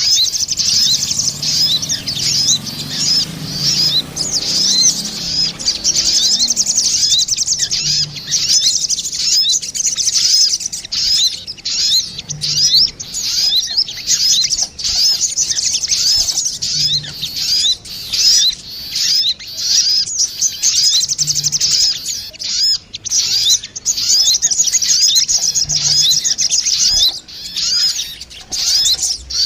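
Lure call of female and male sogon birds calling back and forth: a dense, continuous stream of rapid high-pitched chirps and trills.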